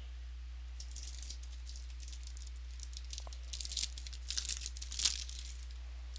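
Trading card pack wrapper being torn open and crinkled, in irregular crackly bursts that grow louder, with the loudest rip about five seconds in, over a steady low electrical hum.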